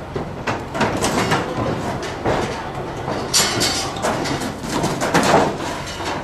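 Roofing work overhead: irregular knocks, thuds and scrapes on the roof above, a few each second.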